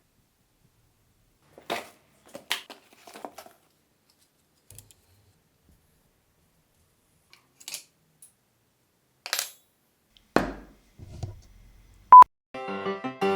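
A few separate clicks and clinks of small hard objects being handled, with a heavier knock about ten seconds in, then a short, loud single-pitch beep near the end, after which music starts.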